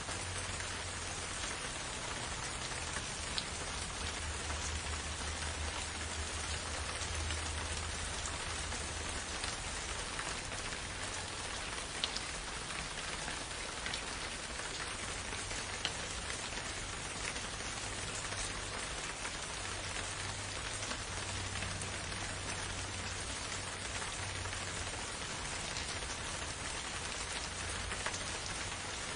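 Steady rain falling in a forest, an even hiss with occasional louder single drops ticking out, over a faint low rumble.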